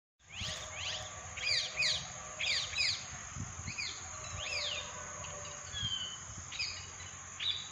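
Wild birds chirping in clusters of quick, sharply falling notes, over a steady high-pitched insect drone.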